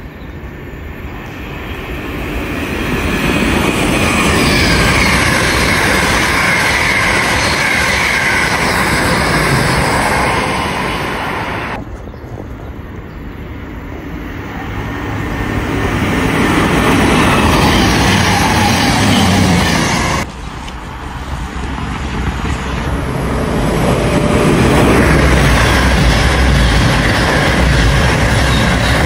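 Trains passing through at speed, each a swelling rush of wheels on rail and air, in three clips that break off abruptly twice. The last is a CrossCountry Voyager diesel unit running by close, with a deep rumble.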